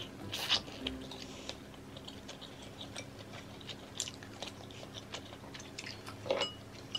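A person chewing a mouthful of braised pork spare rib close to the microphone, with small wet mouth clicks and smacks.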